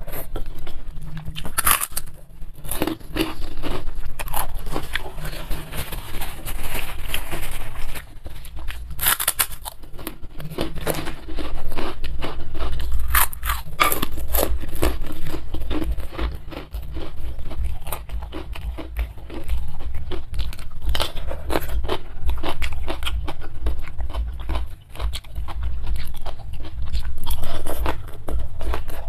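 Close-miked eating sounds: crisp kerupuk crackers bitten and crunched, and mouthfuls of fried instant noodles chewed, in a continual run of sharp crunches.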